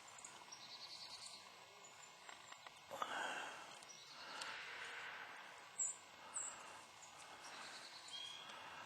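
Small birds chirping faintly, with two short, sharp high chirps close together about six seconds in. A soft rushing noise swells about three seconds in and fades.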